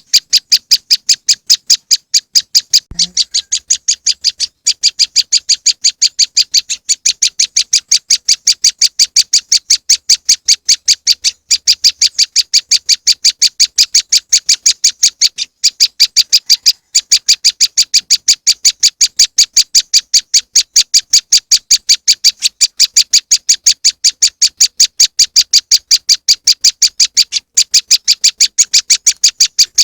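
Prenjak lumut (a prinia) lure call: a loud, fast run of sharp high chirps, about ten a second, broken by brief pauses.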